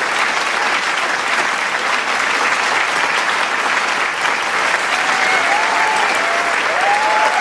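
Large crowd applauding steadily, a dense wash of clapping. About five seconds in, a few cheering voices rise over it.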